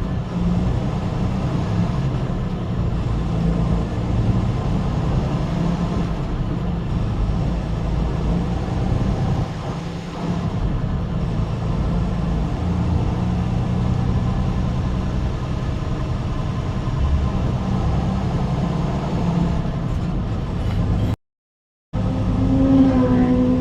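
Steady low rumble of a moving vehicle's engine and road noise. It cuts out abruptly for under a second near the end, and a held pitched tone comes in just after.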